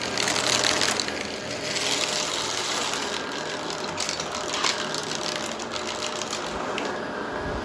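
Vacuum cleaner running steadily, its motor humming under the rush of suction, with a few brief crackles of debris being sucked up partway through.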